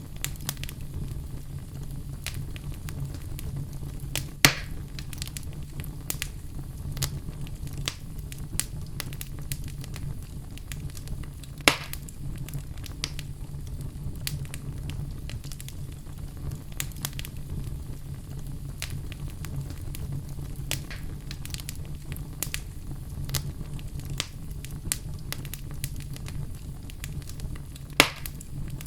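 Log fire crackling: frequent small pops and snaps over a steady low rumble, with three louder sharp pops, a few seconds in, near the middle and near the end.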